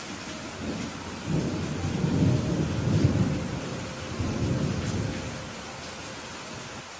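Steady rain falling, with a roll of thunder that swells about a second in, peaks around the middle and dies away before the end.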